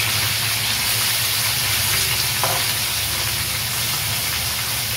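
Prawns being lightly fried in hot mustard oil in an aluminium kadai, with a steady sizzle as a metal spatula turns them.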